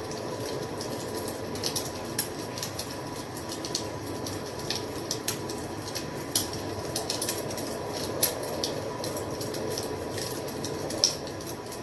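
Wood fire crackling: irregular sharp pops and snaps, several a second, over a steady low rushing of the flames, with a couple of louder pops near the end.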